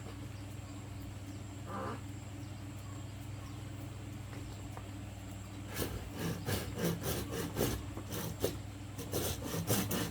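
Bamboo being cut with a hand saw: rapid back-and-forth strokes, about three to four a second, starting about six seconds in.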